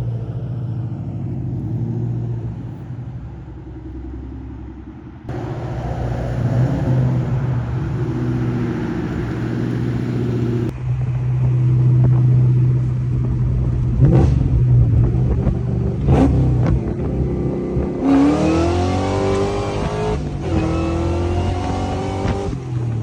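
Ford Mustang SVT Cobra "Terminator" supercharged 4.6-litre V8 running, heard in several cut-together clips. Near the end it accelerates hard twice, its pitch climbing each time.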